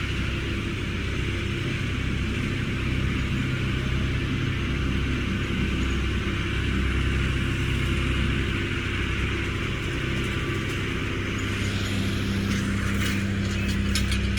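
An engine running steadily at an even speed, with a few sharp clicks and rattles near the end.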